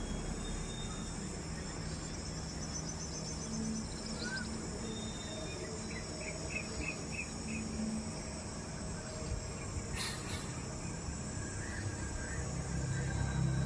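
Outdoor natural ambience: insects and a few short runs of quick bird chirps over a steady low rumble, with one sharp click about ten seconds in.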